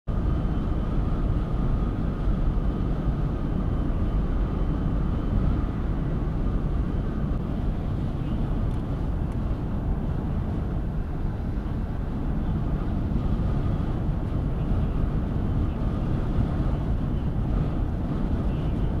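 Steady low rumble of a vehicle driving along a highway, tyre and engine noise with a faint steady whine above it.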